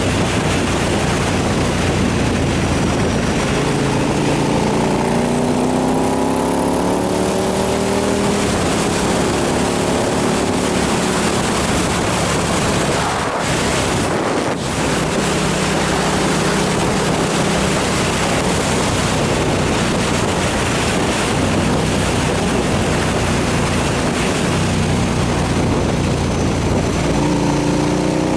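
KTM 990 SMR's V-twin engine running at road speed under heavy wind noise on the microphone. The engine's pitch climbs as it accelerates, about four seconds in and again near the end.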